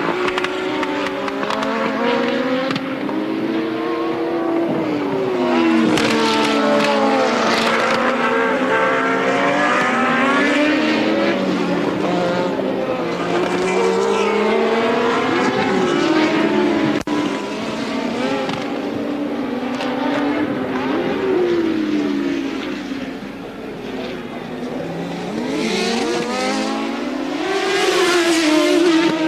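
Formula One race cars from the 1983 season running at racing speed, several engines heard at once. Their pitch keeps rising through the gears and dropping back on upshifts and braking.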